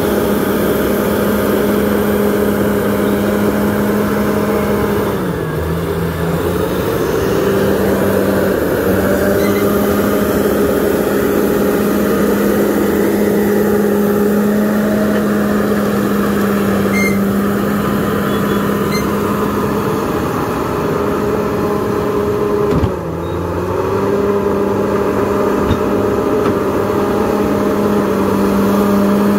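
Crawler bulldozer's diesel engine running steadily at high revs. Its pitch dips briefly about five seconds in and again about three-quarters of the way through.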